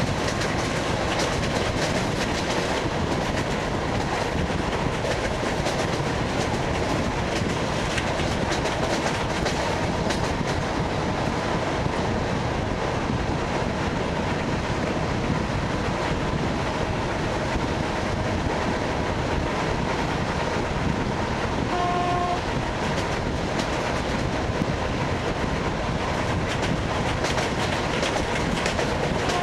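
ED9MK electric multiple unit running over jointed rail, its wheels giving a steady clickety-clack with running noise. A short horn note sounds about 22 seconds in and again at the very end.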